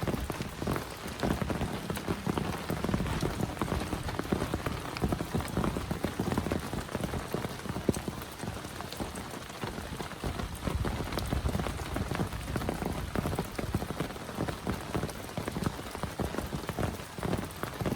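Heavy rain falling steadily, with many close drops ticking on a surface.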